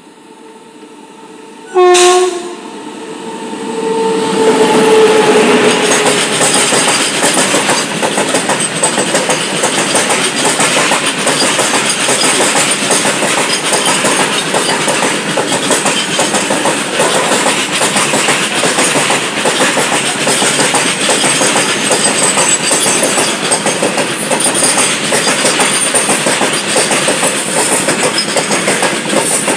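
A freight train's locomotive horn gives a short sharp blast, then a longer note that drops in pitch as the engine passes. A long train of freight wagons then rushes past at speed, its wheels clattering steadily over the rails.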